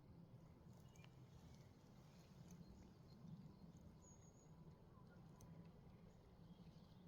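Faint birdsong: scattered short high chirps and a brief high whistled note about four seconds in, over a low steady rumble.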